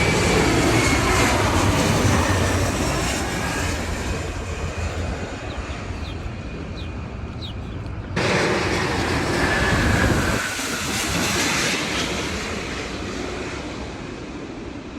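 Jet airliners passing low overhead: engine rumble and rushing noise with a faint falling whine. One pass fades, then about eight seconds in a second loud pass cuts in abruptly, swells and slowly fades.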